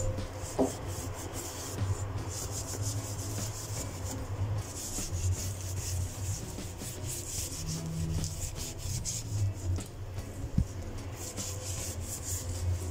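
Irregular rubbing or scraping noise.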